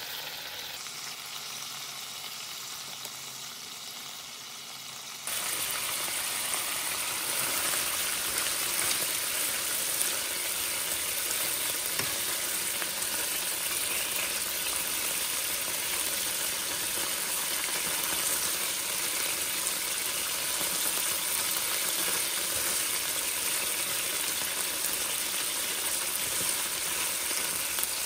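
Chicken livers sizzling in hot oil in a frying pan, a steady frying hiss. About five seconds in it jumps abruptly louder and stays that way.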